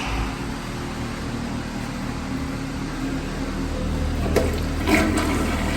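Water running steadily, with two short knocks near the end.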